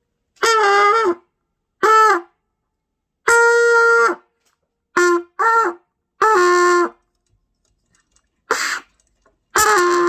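A trumpet blown by a learner: about eight short, separate notes, each under a second, some of them dropping in pitch as they end.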